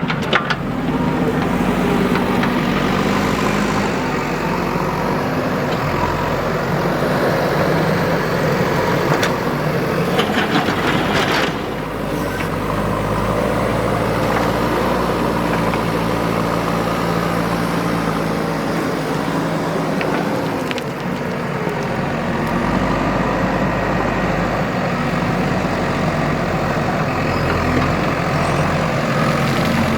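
Diesel engine of a JCB 3DX backhoe loader running under changing load while loading sand, its pitch rising and falling. A short burst of noise about eleven seconds in.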